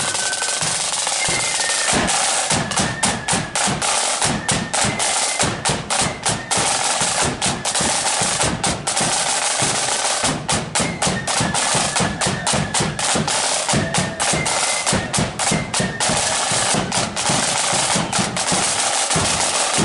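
Flute band's drum corps playing: rapid snare drum strokes and rolls over bass drum beats, in a steady march rhythm that stops sharply at the end.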